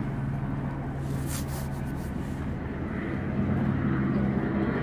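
A steady low engine drone, with a brief hiss about a second in.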